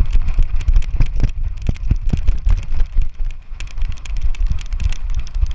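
Loud, rumbling buffeting and many quick, irregular knocks and rattles picked up by a GoPro camera's microphone as the camera is jostled and moved about.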